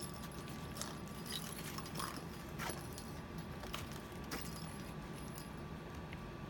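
A kitten playing with a small object that gives off light, scattered clinks and jingles every half second to second, over a steady low hum.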